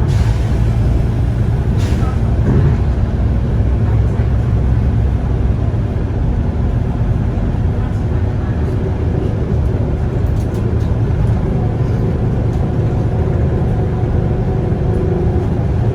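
Volvo B9TL double-decker bus heard from inside the cabin while moving: a steady, loud rumble of the diesel engine and drivetrain, with a faint steady hum coming in about halfway through and a few light rattles.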